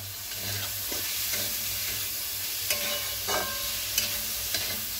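Soya chunks and spring onions sizzling in a non-stick wok while a spatula stirs and tosses them, scraping the pan. Several sharp clinks of the spatula against the wok ring out in the second half.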